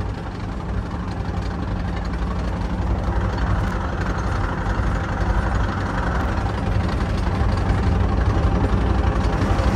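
Metra commuter train running at speed, heard from inside the passenger car: a steady rumble of wheels on rails that grows slightly louder.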